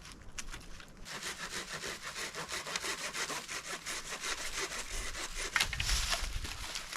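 A hand saw cutting through wood in quick, rasping strokes, starting about a second in.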